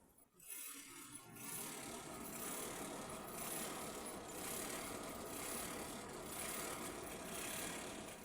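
Heavy rain falling as a dense, steady patter of many small hits, building up about a second in and cutting off abruptly near the end.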